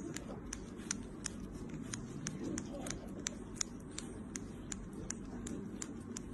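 A run of light, sharp clicks at an irregular rate of about three a second, over a low murmur.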